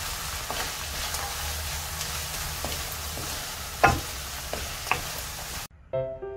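Garlic scapes and dried shrimp sizzling in a non-stick wok as a wooden spatula stirs them, with a handful of knocks of the spatula against the pan, the loudest about four seconds in. The sizzle cuts off near the end and background music begins.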